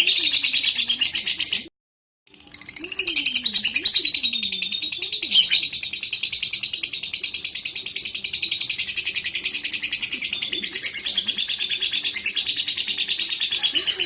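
Lovebird singing a long, rapid chattering trill, broken by a short silent gap about two seconds in. A fainter low, wavering sound runs beneath it.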